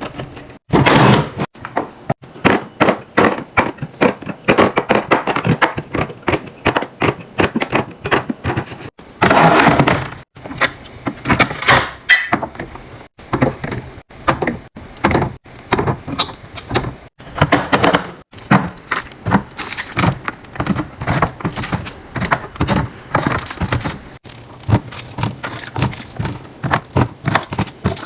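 Containers and food packages being set down and arranged in a refrigerator: a dense, uneven run of clacks, taps and thunks, with short louder clusters now and then.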